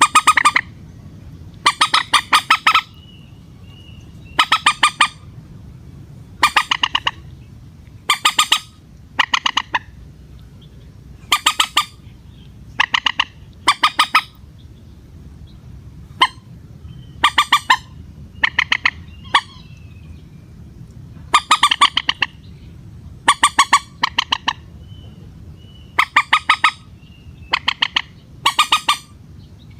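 Common moorhen calling: short bursts of rapid, stuttering clucks, each under a second long, repeated every one to two seconds.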